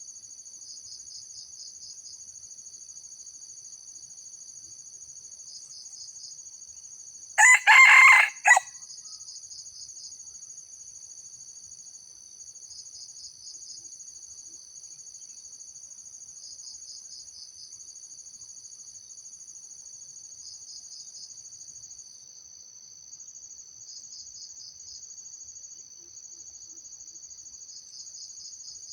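A junglefowl rooster crows once, a short, broken crow of about a second, about seven seconds in. Behind it, insects keep up a steady high-pitched chorus with a pulsing trill repeating every couple of seconds.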